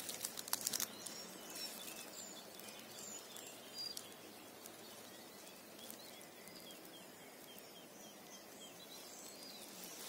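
Faint songbirds chirping and twittering, many short high calls scattered throughout, with a few soft clicks in the first second.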